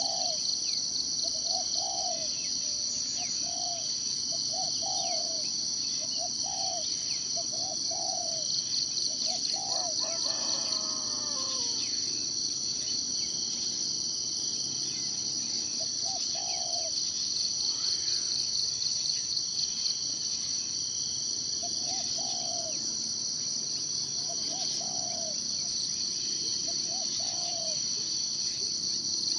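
Forest ambience: a steady, high, pulsing chorus of insects, with a bird repeating a short low call about once a second in two runs, and a longer falling call about ten seconds in.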